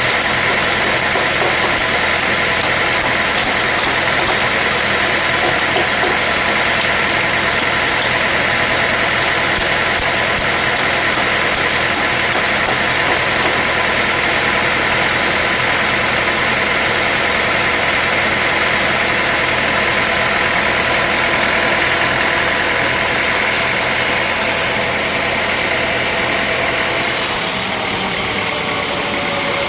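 Sawmill machinery running steadily, an engine-like drone with steady tones. The sound changes near the end, as the low hum drops away and a higher tone comes in.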